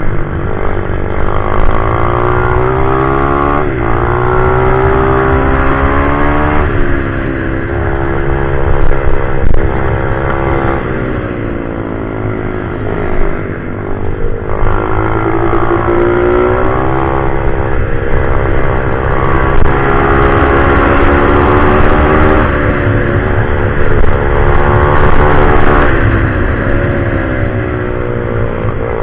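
Pit bike's single-cylinder four-stroke engine running hard and close: its pitch climbs, drops at each gear change or lift-off, and climbs again, over and over as it is ridden around a track.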